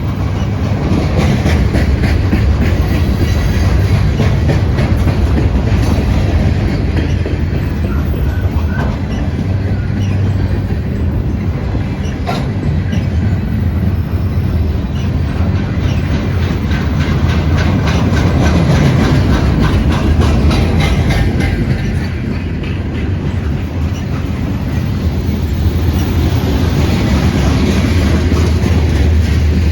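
Long freight train rolling past close by: a steady low rumble with the continuous rhythmic clatter of wheels over rail joints, and a faint squeal of wheels.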